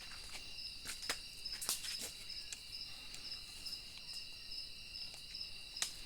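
Night insects, crickets, chirping steadily in two shrill overlapping tones, with a few sharp snaps scattered through, one near the end the loudest.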